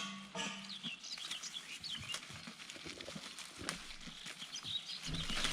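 Birds chirping in many short, quick high calls. A pitched animal call stops about half a second in.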